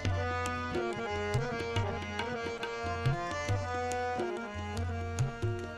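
Instrumental music: tabla playing a steady rhythm, its low bass-drum strokes gliding up in pitch, under a sustained melodic line.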